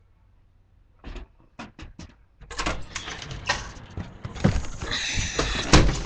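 Craftsman 25 cc two-stroke string trimmer being pull-started cold. A few clicks of the starter come first, then about two and a half seconds in the engine catches and runs loud and uneven for a few seconds before dropping away near the end. It would only start with the throttle held wide open, not on prime and half choke as usual.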